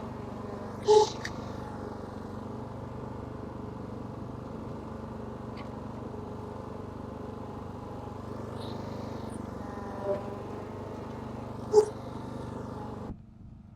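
Small lawn mower engine running steadily, stopping abruptly near the end. Two short, sharp louder sounds stand out, one about a second in and one near the end.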